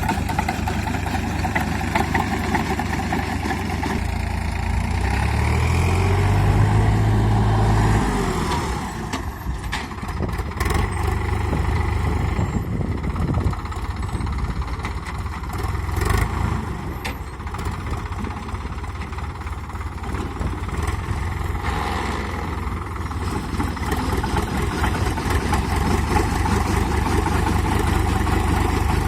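Sonalika 745 tractor's diesel engine running hard, its pitch rising as it revs up about four to eight seconds in, then dropping suddenly and running on at lower revs, with a few sharp clicks along the way.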